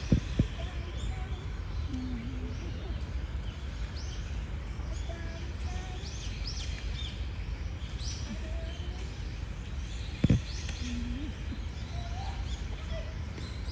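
Small birds chirping, short high calls scattered throughout, over a steady background noise. There are a couple of sharp knocks at the start and another about ten seconds in.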